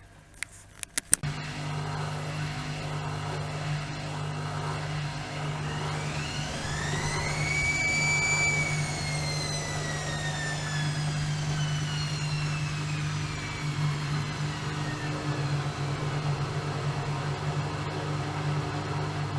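Bauknecht WAK 5750 G washing machine: a few relay clicks, then its brushed drum motor starts turning the drum with a steady hum. Its whine rises over about two seconds, then slowly falls.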